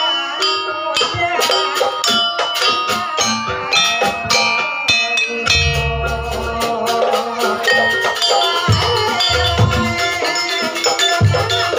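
Live campursari band playing instrumental dance music: quick struck mallet-percussion notes over drums and rattling percussion, with deep drum strokes joining in the second half.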